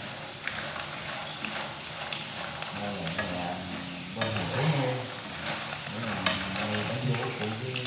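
Macaroni frying in hot oil in a non-stick pan, a steady sizzle, with a few light clicks of chopsticks against the pan as it is stirred.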